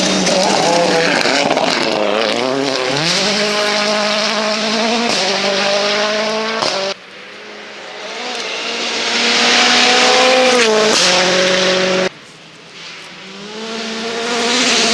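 Rally cars at full throttle, each engine revving up and dropping in pitch at gear changes, over a loud rush of tyre and road noise. The sound cuts off abruptly twice, about halfway through and again near the end, as one car's pass gives way to another's.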